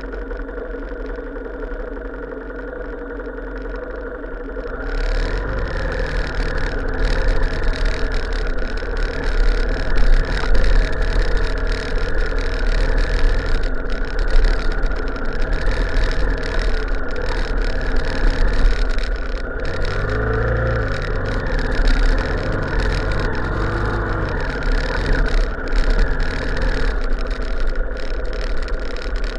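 Motor vehicle engine running steadily while driving, growing louder about five seconds in.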